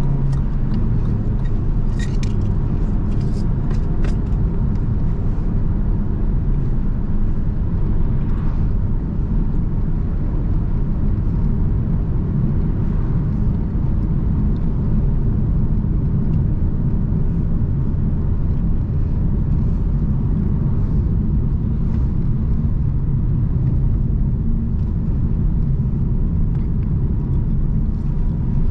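A car driving along a road: steady low engine and tyre rumble, with a few light ticks in the first few seconds.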